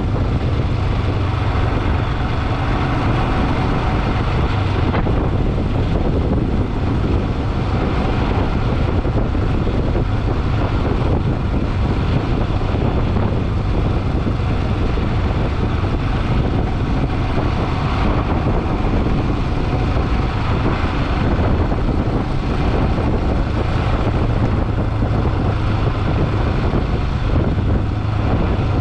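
Motorcycle riding at steady speed, its engine a constant low hum under heavy wind rushing over the microphone.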